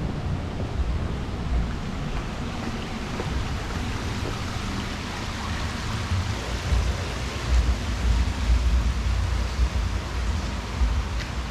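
Wind buffeting the microphone in uneven low gusts over a steady rushing hiss, strongest in the second half.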